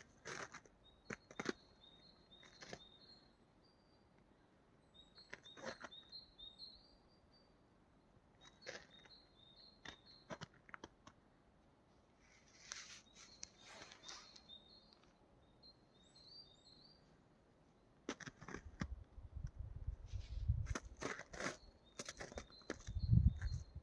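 A small songbird singing a short high phrase, repeated every few seconds. Low rumbling noise comes in near the end, and faint clicks are scattered throughout.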